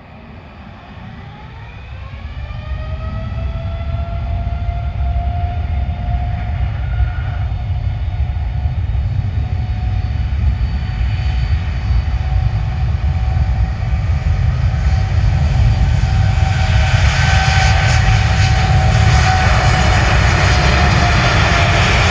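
Boeing 787-10's Rolls-Royce Trent 1000 turbofans spooling up to takeoff thrust. A whine climbs in pitch over the first few seconds and then holds steady, while a deep rushing noise keeps growing louder through the takeoff roll.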